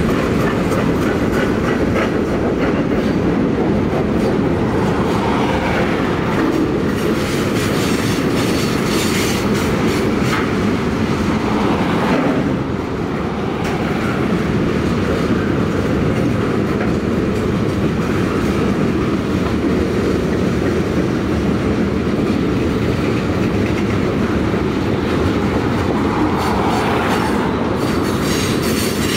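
Freight cars of a long mixed freight train (boxcars, tank cars, covered hoppers) rolling past: a steady, loud rumble of steel wheels on rail with clacking over the rail joints.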